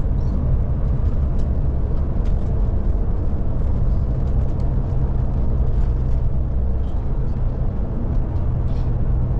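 Scania Touring coach driving at a steady pace, heard inside the coach: a constant low engine drone and road noise, with faint small ticks and rattles.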